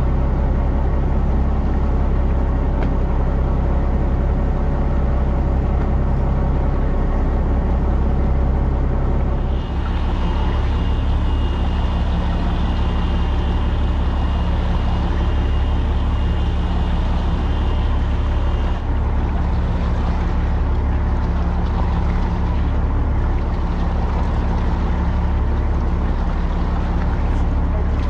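Fishing boat's engine running steadily. Its note changes about ten seconds in, and a thin high whine sounds over it for about nine seconds.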